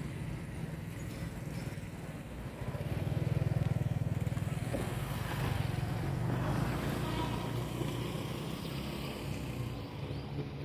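Low diesel rumble of a passenger train pulling away along the tracks. It swells about three seconds in and eases toward the end.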